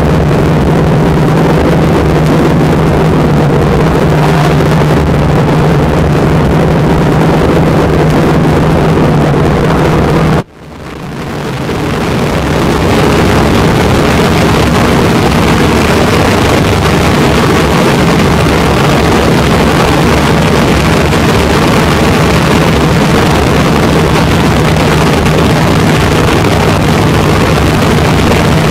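A vintage MGA race car's four-cylinder engine idling steadily, heard from inside the open cockpit. About ten seconds in the sound cuts out abruptly, then fades back in and runs steady again.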